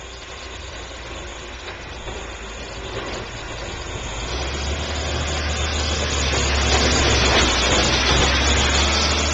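Neighborhood snowplow truck approaching, its heavy engine and road noise growing steadily louder through the second half and loudest about three-quarters of the way in.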